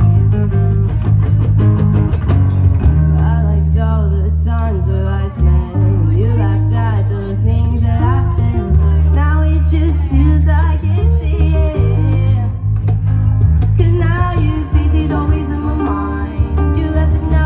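A live band playing a song: a heavy bass line and guitar underneath a gliding lead melody.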